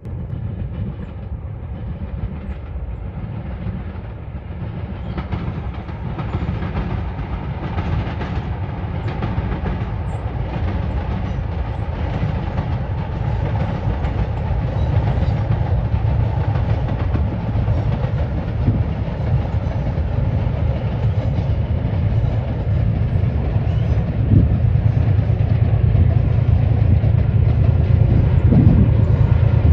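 A train running past on the rails, with a steady low rumble that grows gradually louder.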